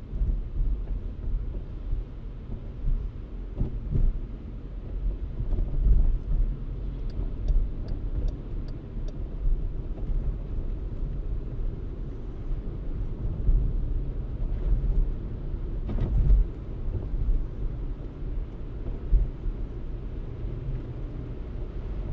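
Car driving, a steady low rumble of road and engine noise with occasional bumps. About seven seconds in comes a short run of about six light, evenly spaced ticks.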